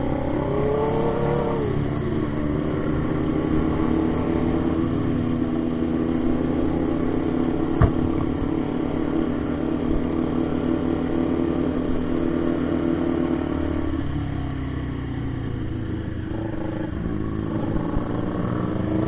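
Motorcycle engine running steadily under way. It eases off for a few seconds past the middle and picks up again near the end, with one sharp click about 8 seconds in.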